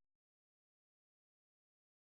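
Digital silence: the gap between two sound effects.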